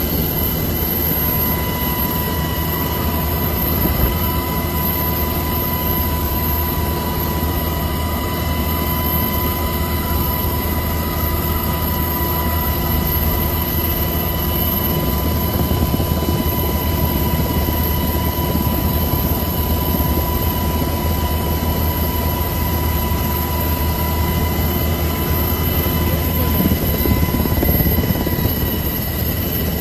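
Strong storm wind rushing steadily and loudly, with a faint steady whistle above it.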